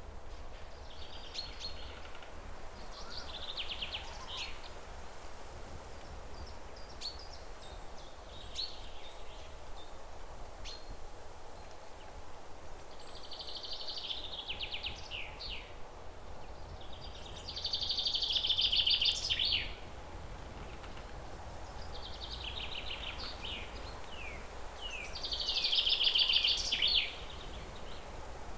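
Songbirds singing outdoors: short, rapid trilled phrases every few seconds, two louder ones about halfway through and near the end, over a steady outdoor hiss and low rumble.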